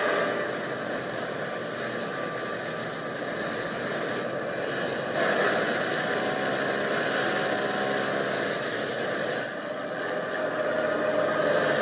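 Propeller airplane engine droning steadily amid rushing wind. The sound shifts abruptly about five seconds in and again near ten seconds.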